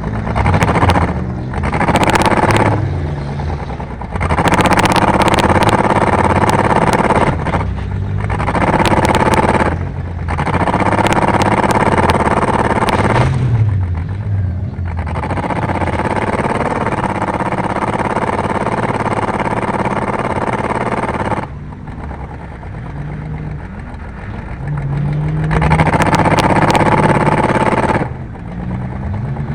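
Car engine racing hard, opening up under throttle in pulls of a few seconds, easing off briefly between them, and picking up again, about seven times over.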